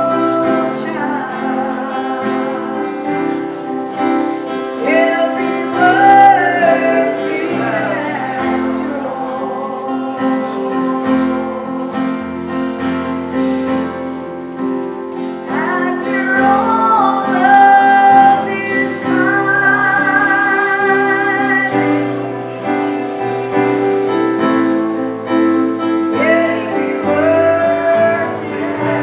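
Church music: a woman singing drawn-out phrases with vibrato over steady, sustained instrumental chords.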